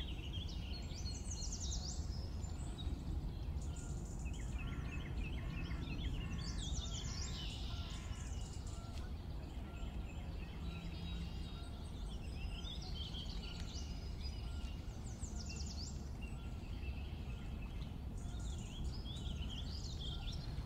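Birds singing with quick chirps and trills over a steady low rumble of outdoor ambience.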